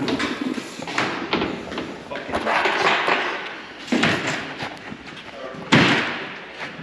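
A series of loud knocks and bangs with clattering noise between them, the loudest bang near the end.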